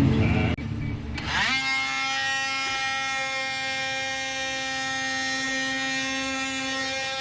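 Small electric power tool motor spinning up about a second in, then running at a steady, unloaded speed with a steady whine. Before that, a brief low rumble cuts off about half a second in.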